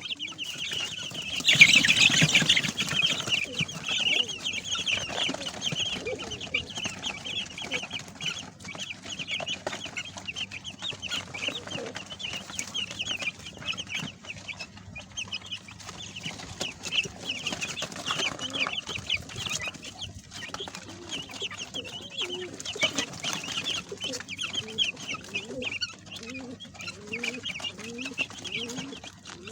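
A flock of young Sasso chicks peeping: a dense, continuous chorus of short high cheeps, with a louder burst of noise about two seconds in.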